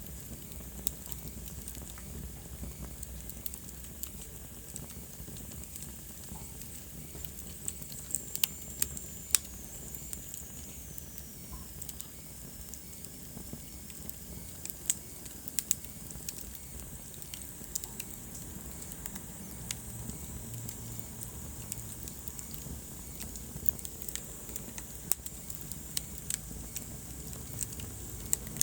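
Wood fire crackling in a fireplace: a steady low rumble of flames with scattered sharp pops and crackles. A faint high whistle slides down in pitch about eight seconds in.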